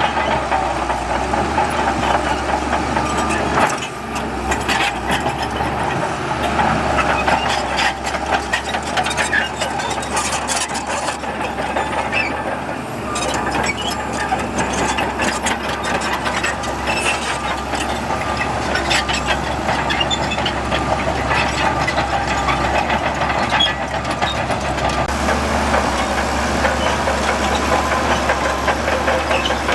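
Heavy earthmoving machinery with its diesel engine running steadily under load, with many metallic clanks and knocks.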